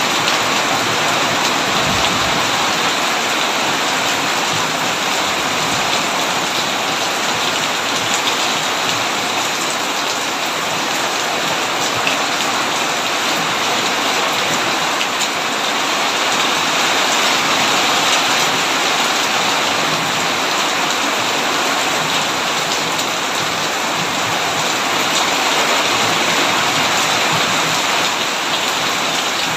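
Heavy rain falling steadily on a tin roof, a dense, even patter with scattered sharper drops.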